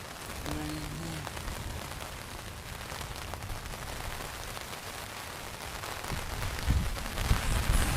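Steady rain pattering on a tarp, with a brief low hoot-like call about half a second in. From about six and a half seconds in, thunder rumbles in heavy low surges that grow louder toward the end.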